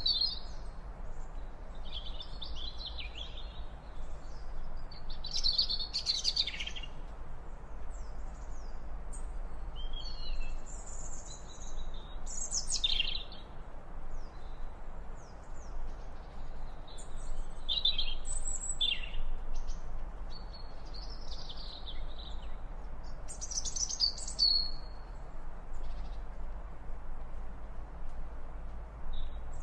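Small birds chirping and singing, with many short, varied chirps and whistles scattered throughout, over a steady low background noise.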